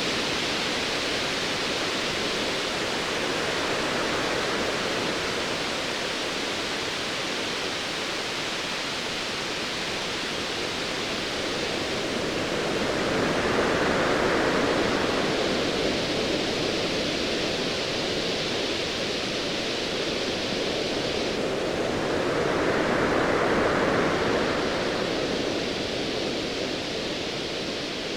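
Ocean waves washing in a steady rush of surf noise, swelling louder twice, about halfway through and again near the end.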